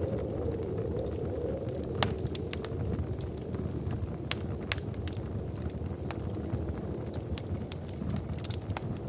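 Wood fire in a fireplace crackling, with irregular sharp pops and snaps over a steady low rumble of the flames; one louder pop about two seconds in.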